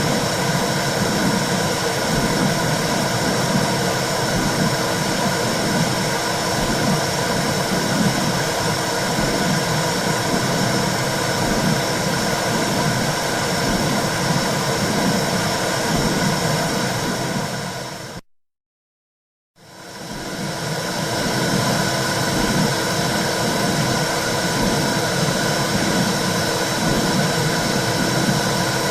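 Womb sound for soothing a baby: a steady whooshing noise with a regular low pulse like a heartbeat. It cuts out to silence for about a second and a half past the middle, then fades back in.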